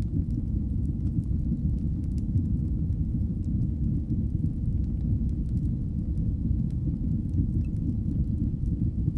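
Fireplace fire burning with a steady low rumble, and a few faint crackles and pops scattered over it.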